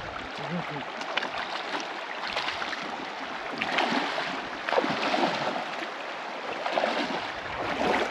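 River water rushing and splashing, as a person wades through a shallow river, with irregular louder surges of sloshing water.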